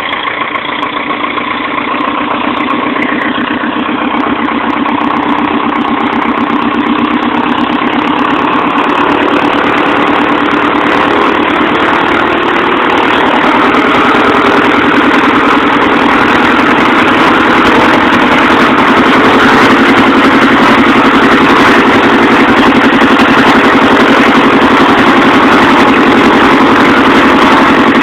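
Taylorcraft BC-12D light airplane's engine and propeller running during a ground runup, growing steadily louder over about the first twenty seconds as power comes up, then holding steady at high power.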